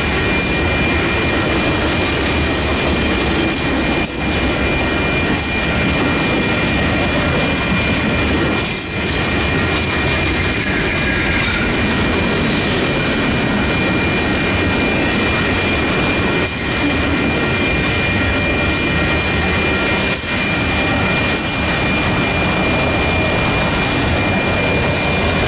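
Freight cars rolling steadily past, wheels clattering over the rails, with a thin steady high squeal running underneath and an occasional clank.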